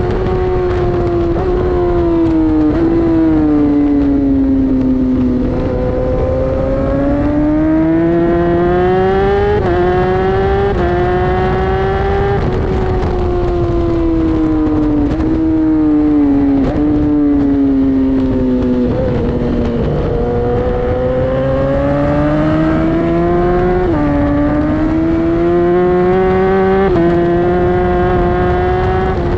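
Inline-four superbike engine at speed on a race track, its pitch climbing as it pulls and dropping sharply with each gear change, and sweeping down and back up through braking and corners. A steady rush of wind noise runs under it.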